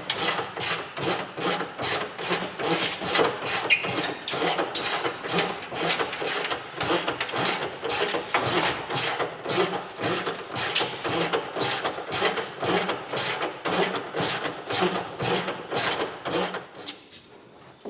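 A rhythmic mechanical clicking, about three sharp strokes a second, typical of a hand ratchet undoing the bolts that hold the bus's fibreglass front wing.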